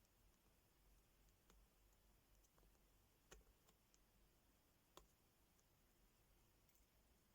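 Faint, scattered small clicks and taps, typical of a diamond-painting pen picking up and pressing tiny resin drills onto a sticker sheet. There are about five in all; the two loudest come about a third of the way in and about two-thirds of the way in.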